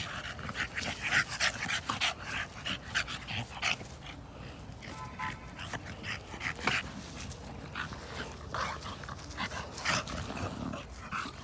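Young bully-breed dogs play-fighting: scuffling, breathing and small vocal noises in quick irregular spurts, with one short high-pitched cry about five seconds in.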